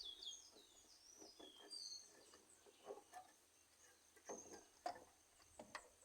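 Near silence: quiet outdoor background with a few quick, high bird chirps in the first couple of seconds and several faint clicks or taps scattered after.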